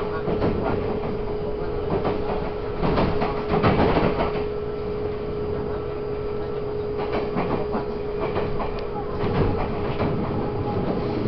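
Taiwan Railways EMU800 electric multiple unit running at steady speed, heard from inside the carriage: a constant hum at one unchanging pitch over rolling wheel noise, with a few bursts of clatter from the wheels over track joints.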